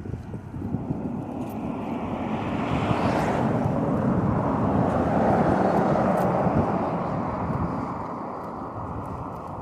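A motor vehicle passes, its noise swelling over several seconds and then fading, above the rumble and wind noise of the moving bicycle.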